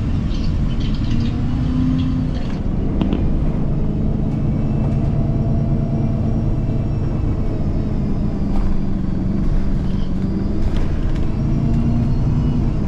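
Bus engine running, with road rumble: a steady low drone whose engine tone rises and falls slightly as the bus drives.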